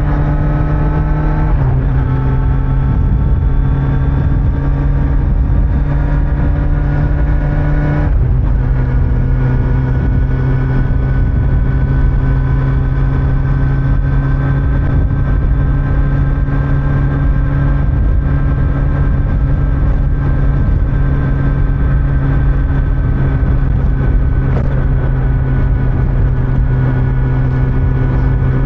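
Kawasaki Z900's inline-four engine under way. The note climbs and drops sharply twice, about one and a half and eight seconds in, as the bike shifts up, then holds a nearly steady cruising note, with wind and road noise underneath.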